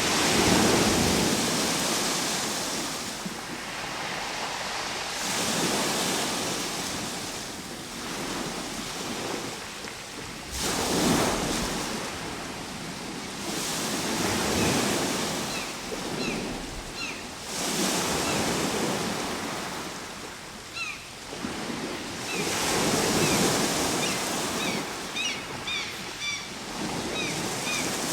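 Ocean waves breaking and washing in, swelling and ebbing in slow surges every four to five seconds. Short high chirps sound over them in the second half.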